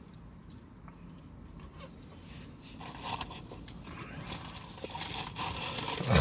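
A person chewing a mouthful of sandwich close to the microphone, with small crunching and crackling noises that grow busier and louder in the second half.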